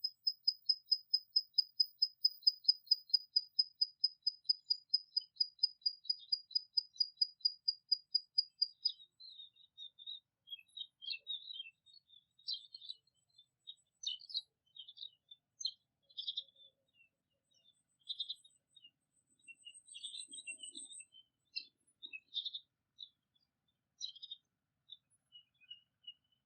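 Birdsong: a fast run of high, evenly repeated notes, about five a second, for the first nine seconds, then scattered short chirps and twitters. A brief thin, very high trill comes in about three-quarters of the way through.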